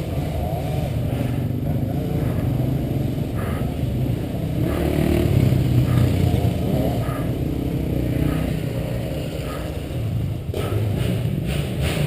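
Motocross bike engine running, a steady rumble that grows a little louder about five seconds in.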